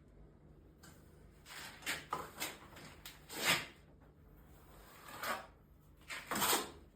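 A series of short scraping or rubbing sounds, four or five of them about a second apart, the loudest about three and a half seconds in and another near the end.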